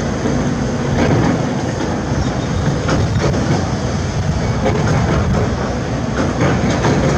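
Heavy construction machinery working: a diesel engine running under a dense, continuous clatter of knocks and rattles.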